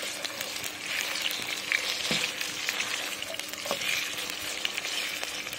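Chicken pieces sizzling steadily as they fry in hot oil in a karahi, turned with a spatula that knocks against the pan a couple of times.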